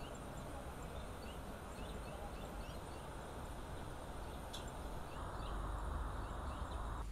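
Outdoor garden ambience: a steady hiss with short, repeated bird chirps, and a louder low rumble coming in about five seconds in.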